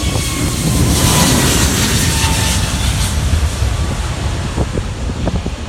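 easyJet airliner's jet engines at take-off thrust, a loud roar that swells about a second in and slowly eases, with a faint whine falling slightly in pitch as the aircraft passes.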